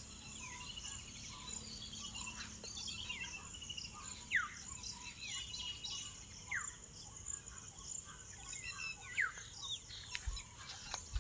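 Several birds calling outdoors: a sharp call sliding down in pitch, repeated about five times a couple of seconds apart, among scattered higher chirps, over a faint high insect chirring.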